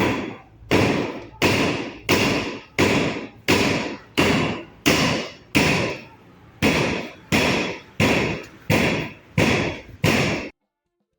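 A run of about fifteen sharp, evenly spaced strikes, roughly three every two seconds, each dying away quickly, with one short break just past the middle; the strikes cut off suddenly near the end.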